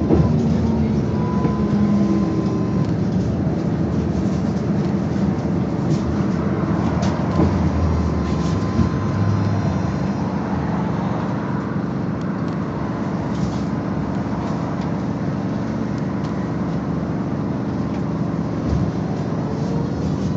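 Interior ride noise of a BKM-221 trolleybus on the move: a steady rumble of tyres and body with a thin, steady whine from the electric drive.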